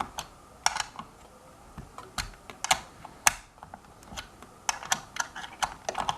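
Sharp, irregular clicks and taps of a hand tool working the screws that clamp a hoverboard wheel motor to the frame, often in quick pairs.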